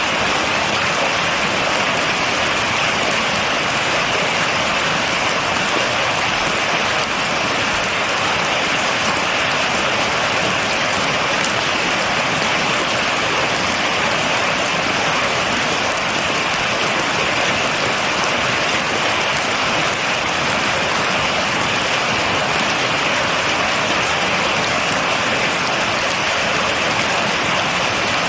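Steady, heavy rain: an even, unbroken hiss of rainfall with a fine patter of drops.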